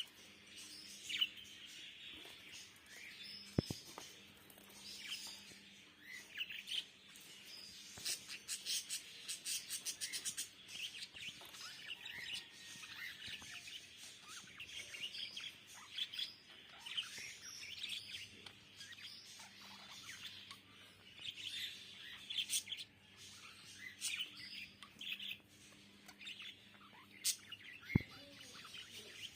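Small birds chirping: many short, high tweets overlapping one another, with a fast run of chirps about eight seconds in. Two brief sharp clicks are heard among them.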